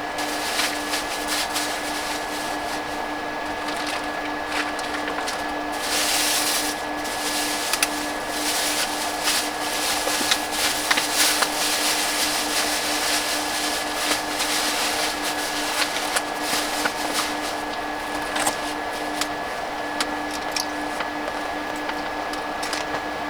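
Storm wind on an ice-fishing tent: a rushing hiss with many small clicks and rustles of the fabric, swelling about six seconds in. Under it runs a steady hum with a constant higher whine.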